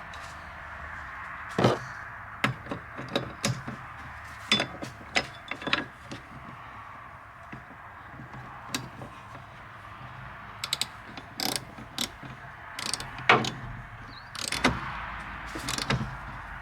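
Irregular clicks and sharp metallic knocks of hand tools working on car parts, with a quick run of small clicks partway through, over a steady hiss.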